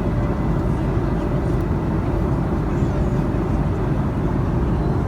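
Steady cabin noise of an Airbus A310-304 in cruise: a constant low roar of airflow and its two General Electric CF6-80C2 turbofans, heard inside the passenger cabin.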